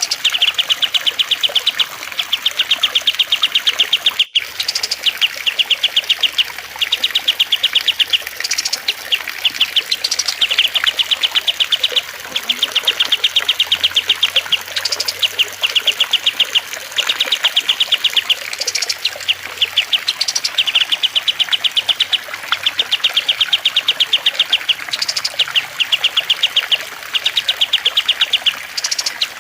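Songbirds chattering in rapid, fast-ticking trills, each about a second long and repeated over and over with short gaps, with sharp higher notes between them. Trickling water runs faintly underneath.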